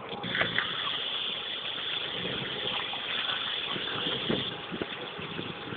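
A car engine running steadily, heard as an even noise that eases a little near the end.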